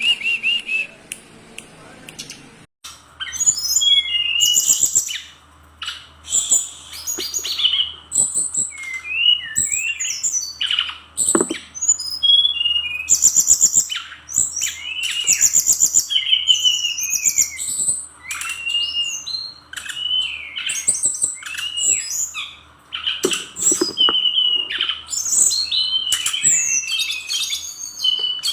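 Fulvous-chested jungle flycatcher singing a fast, varied song of short chirps, trills and sweeping whistles, starting about three seconds in after a brief different sound, with a faint steady hum under it.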